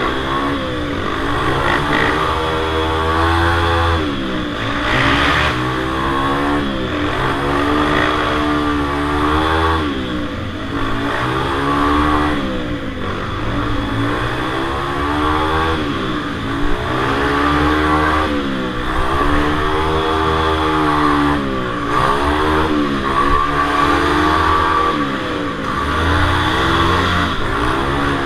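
Several small minibike engines racing round a tight circle track, their pitch rising and falling every two to three seconds as the riders open and ease the throttle through each lap.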